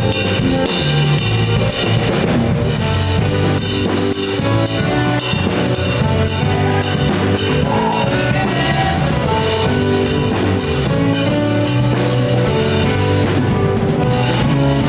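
Live jazz-fusion band playing at full tilt: drum kit with busy cymbals, with bass, guitar, piano and saxophone.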